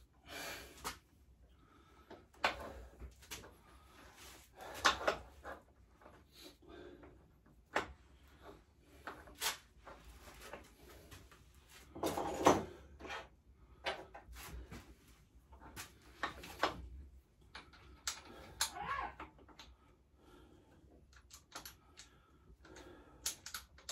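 Scattered clicks, knocks and rattles of metal parts and tools being handled while a pit bike's exhaust pipe is refitted, with a few louder clanks now and then.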